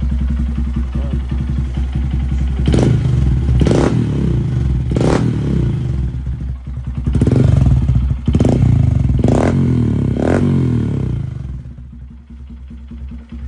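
Honda Grom's single-cylinder engine running through a Yoshimura RS-9T exhaust with its baffle still in. It idles steadily, then is blipped about seven times in quick revs, and drops back quieter near the end.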